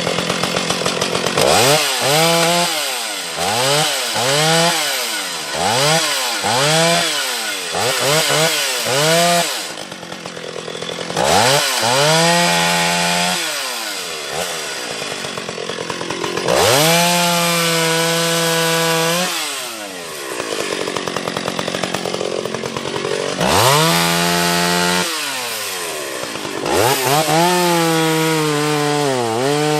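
Gas chainsaw cutting limbs off a felled sweet gum tree. It gives a quick run of about seven short revs, roughly one a second, then four longer cuts at full throttle of one to three seconds each, dropping back to idle between them.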